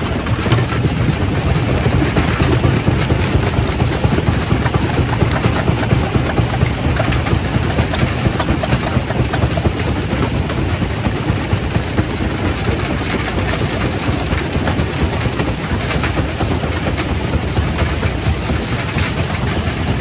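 Quarry primary rock crusher running, a continuous heavy rumble with many sharp cracks and knocks of stone being broken.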